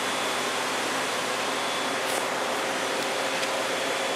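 Steady background hiss with a faint, even hum, as from a fan or air conditioner, and a faint brief brushing sound about two seconds in.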